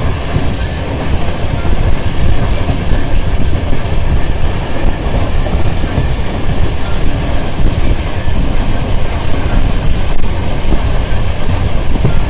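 Khajuraho Express passenger train running along the track: a loud, steady rumble of the coaches with the wheels clattering over rail joints.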